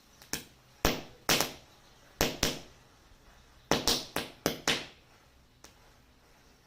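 About ten sharp pops in irregular clusters, each fading quickly, from a matchstick-and-firecracker chain reaction going off.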